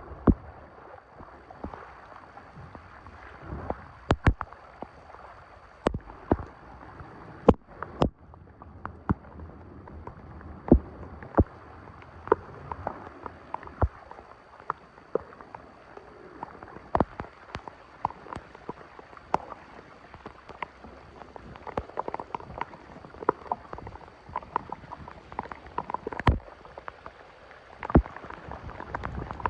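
Shallow water splashing and gurgling, broken by irregular sharp knocks and clicks.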